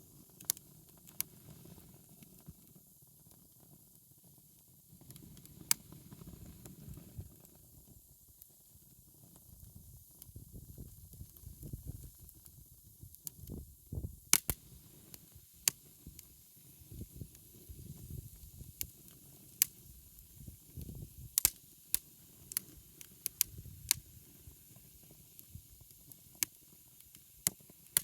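Wood fire crackling, with sharp irregular pops and snaps from burning firewood over a low, uneven rushing rumble.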